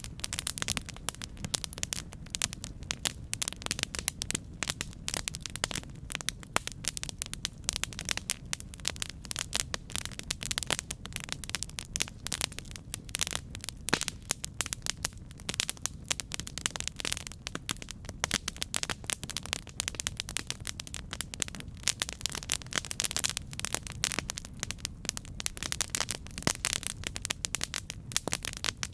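Campfire burning with a constant dense crackle of sharp snaps and pops over a low, steady rumble of flame.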